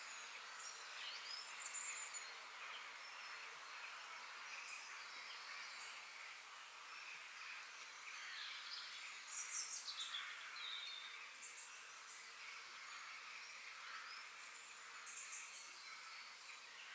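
Faint nature ambience: scattered short, high bird chirps and calls over a steady background hiss, with a brief cluster of calls about halfway through and another near the end.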